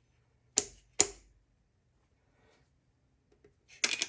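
Sharp metal knocks of a tool being struck against a Chevy 350's connecting rod to drive the piston out of its cylinder bore: two blows about half a second apart, then a quick run of three or four near the end.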